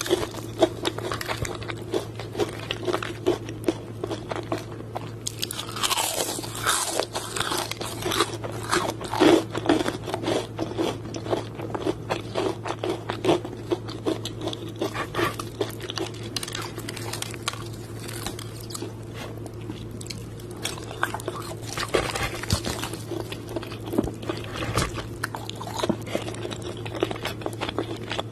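Close-up crunching and chewing of crispy fried chicken: a dense, irregular run of crackling bites and chews, with a low steady hum underneath.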